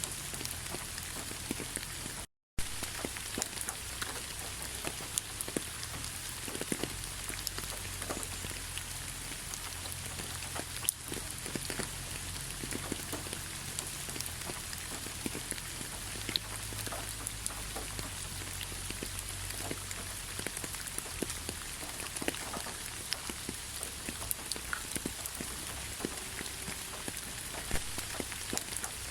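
Steady rainfall with many individual raindrops ticking sharply on surfaces. The sound cuts out completely for a split second about two seconds in.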